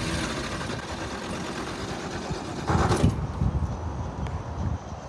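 The 1970 Toyota Land Cruiser's 3.9-litre inline-six engine is being started again and running, with a louder surge about three seconds in.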